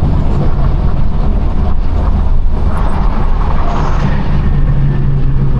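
Straight-piped BMW F32 428i engine and exhaust running at a steady, loud drone with road noise, without any clear rev rise in this stretch.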